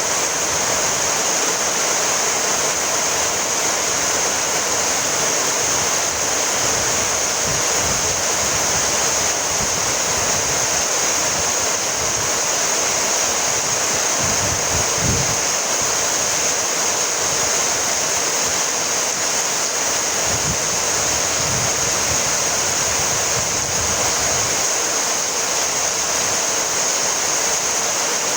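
Steady rainfall, an even, unbroken hiss of rain. Brief low rumbles come about halfway through and again a few seconds later.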